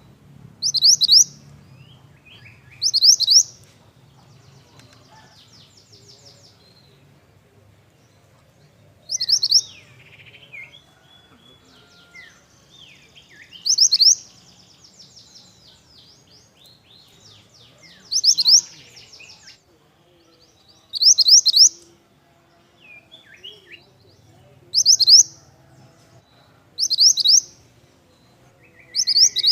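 Pied bushchat (mantenan) singing in full song: a short, loud, high twittering phrase repeated about every two to four seconds, with softer chirps and calls in between.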